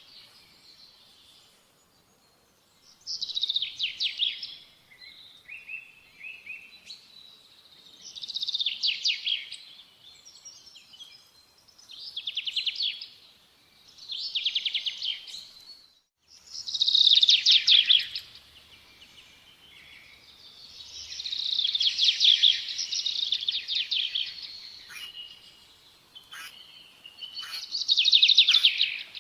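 A songbird singing a series of rapid, high trilled phrases, each lasting one to three seconds, with short pauses between them. The loudest phrases come past the middle and near the end.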